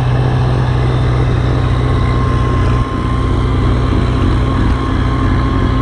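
Diesel tractor engine running steadily, with a thin high whine joining about two seconds in.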